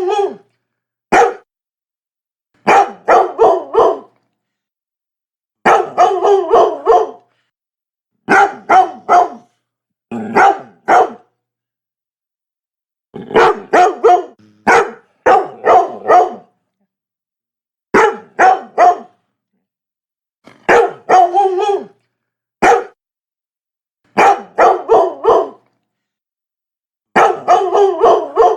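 Labrador barking in quick runs of two to five loud barks, with a second or two of complete silence between runs.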